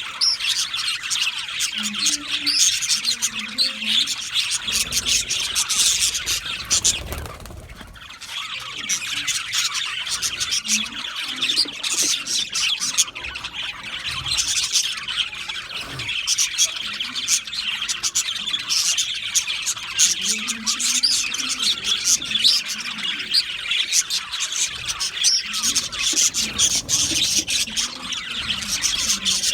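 Budgerigars chirping and chattering continuously, a dense overlapping flock of rapid warbles and squawks, dropping off briefly about seven seconds in.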